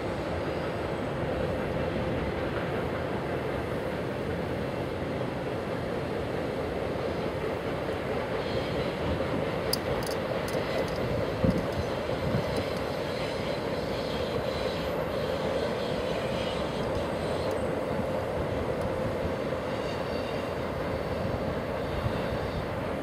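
Freight train of autorack cars rolling past: a steady rumble of steel wheels on rail with a steady tone running through it, and a single knock about halfway through.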